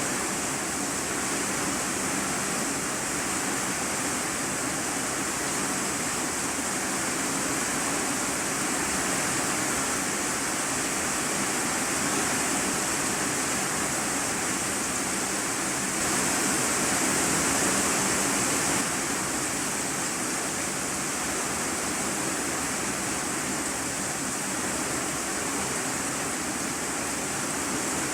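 Heavy rain falling on a corrugated iron-sheet roof, heard from the room beneath: a steady dense hiss that swells a little for a few seconds past the middle.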